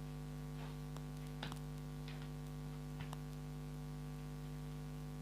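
Steady electrical mains hum in the recording, with a few faint clicks and rustles about one, one and a half, two and three seconds in.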